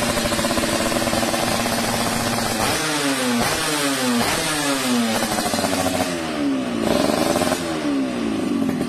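Suzuki RGV 120 two-stroke motorcycle engine revved through its exhaust: a steady run at first, then a string of quick throttle blips, each falling back in pitch, and one longer rise and fall near the end.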